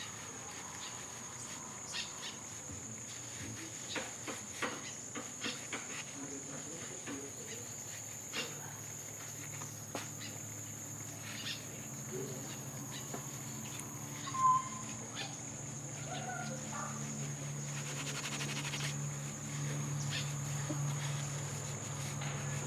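Crickets chirping outdoors in a steady, high, continuous drone, with scattered small clicks and drips around a hair-washing sink and one brief bird-like chirp about two-thirds through. Near the end a low hum of running water swells.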